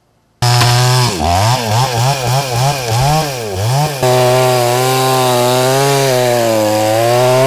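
Two-stroke petrol chainsaw starting abruptly about half a second in, its engine revving up and down about twice a second, then running steadily at high speed for the second half.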